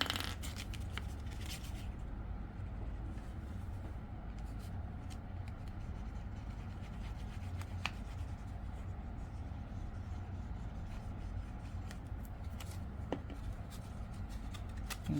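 Glue being applied to a folded piece of patterned paper: faint rubbing and scratching of the applicator on paper with a few light clicks, over a steady low hum.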